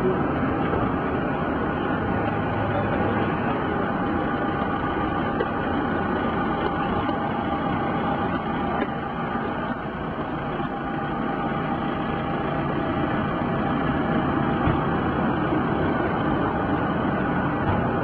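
An engine running steadily: an even drone with a few constant humming tones and no change in speed.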